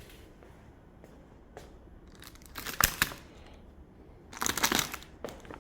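Plastic packaging wrap being cut and torn open, crinkling in two short bursts: one about halfway through and a longer one near the end.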